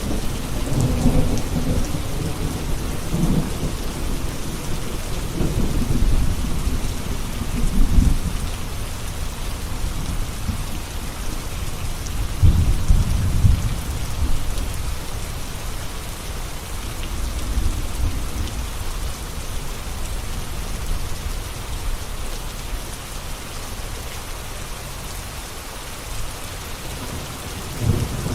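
Steady rain with thunder rumbling low in several rolls: in the first few seconds, again near the middle, and more faintly after that. The rumbling eases off toward the end.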